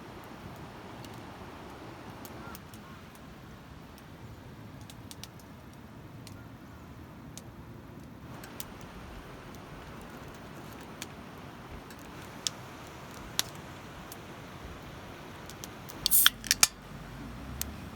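Scattered sharp clicks and ticks of small objects being handled over a quiet steady background, with a quick cluster of louder clicks near the end.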